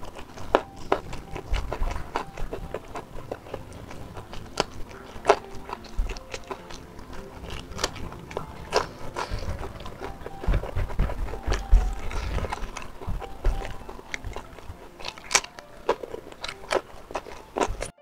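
Close-miked chewing of a mouthful of smoked beef and rice, with many irregular wet mouth clicks and smacks.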